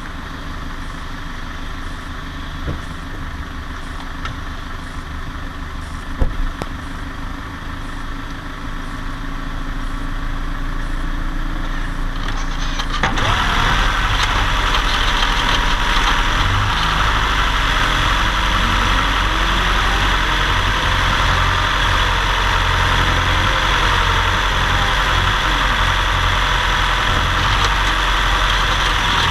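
Car engine and driving noise, steady at first, then stepping up sharply about 13 seconds in and staying louder as the car pulls under load uphill. This is the climb on which the owner checks an abnormal noise, which an ECU relearn has only slightly improved.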